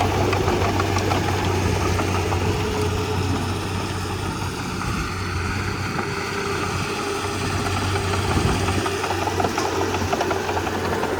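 Komatsu D31P crawler bulldozer's diesel engine running steadily, with scattered light clanks. It eases off slightly midway and picks up again near the end.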